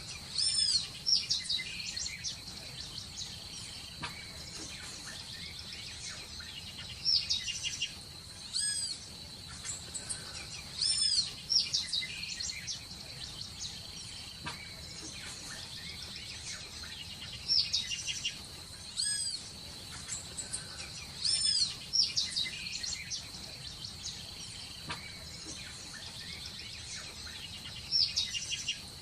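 Birds chirping: short, high-pitched arched calls in quick clusters every two to four seconds, over a steady high-pitched drone.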